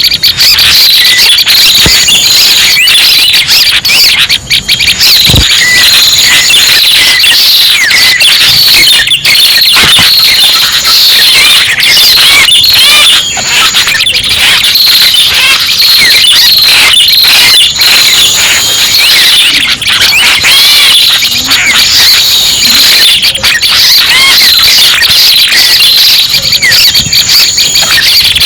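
Bird-lure recording of red-headed prenjak calls: dense, shrill chirping and trilling, loud and without a break, with a short high steady note coming back every few seconds.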